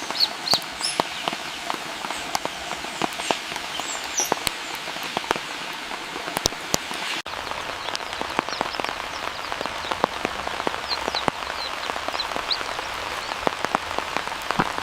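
Steady rain with many individual drops ticking, and a few short, high bird chirps now and then.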